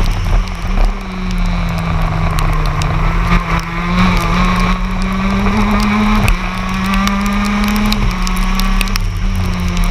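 TM K9ES two-stroke shifter kart engine running hard, heard from onboard the kart: its note climbs slowly and drops off sharply several times, about a second in, twice near the middle and once near the end, as the kart accelerates, lifts and changes gear.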